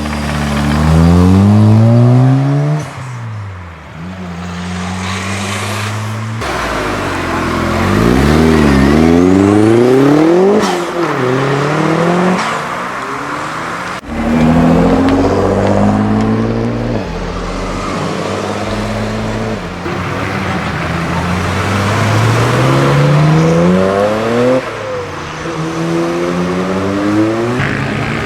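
Modified cars' engines accelerating hard. Each one's pitch climbs as it revs, then drops sharply at a gearchange, over and over. The sound changes abruptly a couple of times as one car gives way to the next.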